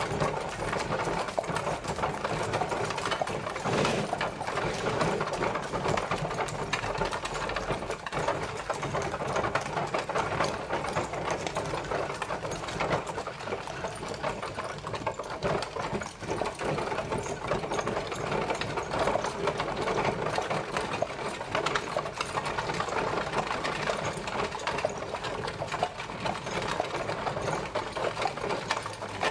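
Horse-drawn carriage travelling: a steady, dense rattle and clatter of the carriage rolling along, made of many fast small clicks that keep on without a break.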